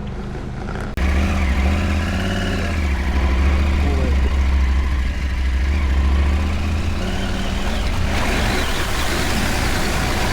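Adventure motorcycle engine running as the bike is ridden, a strong steady low hum. About eight seconds in, a rougher hissing noise comes up over it.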